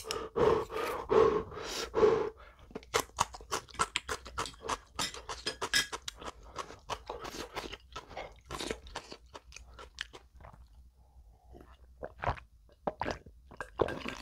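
Hard puffing breaths out through the mouth against the burn of extremely spicy fire noodles, then a long run of close-miked crunchy chewing with many sharp crunches, and a few swallows of a drink near the end.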